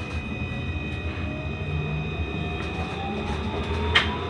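Inside a Melbourne C Class (Alstom Citadis) tram in motion: a steady running rumble with a thin electric drive whine that rises in pitch through the second half, and a single short knock about four seconds in.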